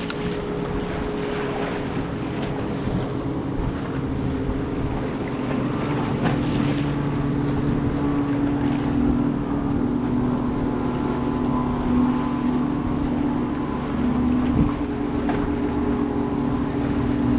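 Boat engine running steadily, a low, even hum, with wind buffeting the microphone.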